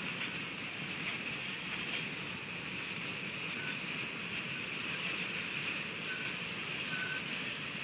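CSX freight train cars rolling slowly over the rails, a steady rumble and hiss of wheels on track, with a few brief high squeaks.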